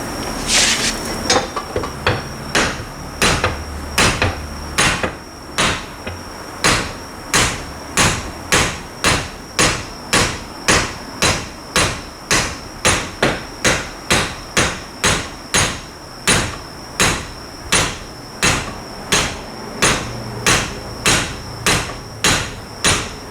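Steady hammer blows, about two a second, on a Suzuki Carry rear differential being dismantled to reach its failed pinion bearing, over a faint steady high-pitched tone, after a brief hiss near the start.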